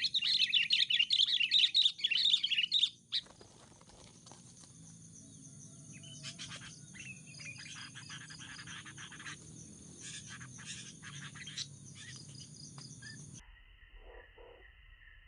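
Sooty-headed bulbuls calling: a loud burst of rapid, high chattering calls for about three seconds, then fainter scattered chirps.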